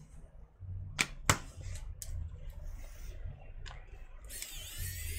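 Small tools and laptop parts being handled during disassembly, with two sharp clicks about a second in and a few lighter ticks. Near the end a high-pitched whine with many overtones starts, dips briefly and then holds.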